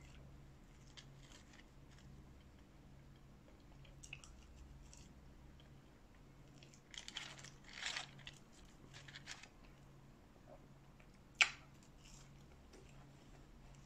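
Close-miked eating: soft chewing of fast food such as fries, with a cluster of louder crunches in the middle and one sharp click later on.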